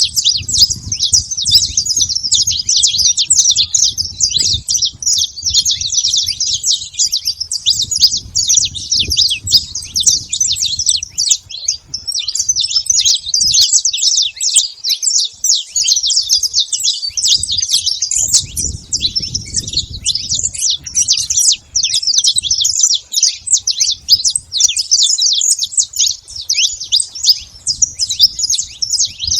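Saffron finch singing a fast, unbroken run of high chirping notes, with a low rumble coming and going beneath it.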